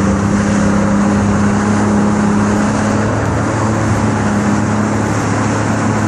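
Jet ski engine running steadily under way, a constant low drone with a steady hiss over it.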